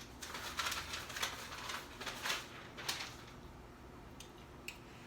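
A sheet of paper rustling and crinkling as it is handled, with sharp crackles, then a few light clicks.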